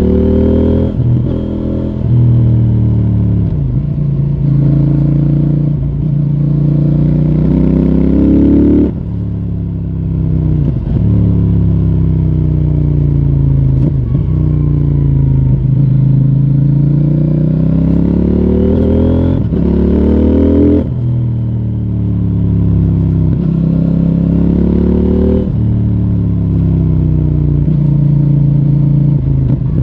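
CFMoto 800NK Advanced's parallel-twin engine through its stock exhaust, heard from the bike as it is ridden. The engine note climbs under acceleration and drops sharply at each upshift, several times, and in between winds down and builds again as the bike slows and speeds up.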